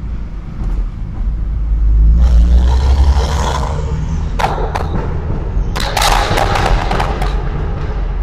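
BMW N55 3.0-litre turbocharged inline-six heard through a microphone at the exhaust, its deep rumble swelling to its loudest about two to three seconds in, then a run of sharp pops and cracks.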